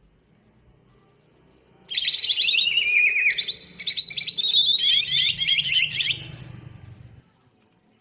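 A green leafbird (cucak ijo) singing a loud burst of song full of mimicked phrases (isian): fast, repeated falling notes. It starts about two seconds in and dies away about seven seconds in.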